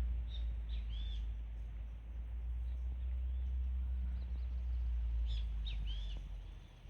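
Sporadic bird whistles: short arching chirps in two small clusters, near the start and again about five seconds in, over a steady low rumble.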